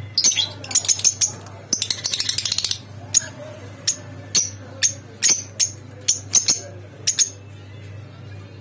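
Small pet cage birds chirping: sharp high chirps every half second or so, with a quick run of rapid chirps about two seconds in, over a low steady hum.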